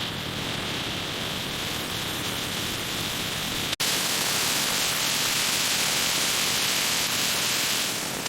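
Steady hiss, like static, that drops out for an instant about four seconds in and comes back louder and brighter.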